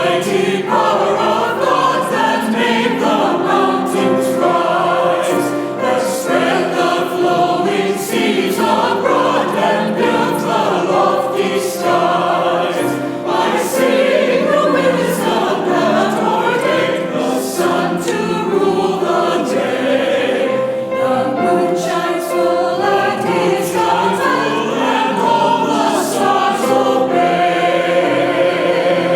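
Church choir singing a sacred anthem in several voice parts, holding long sung notes.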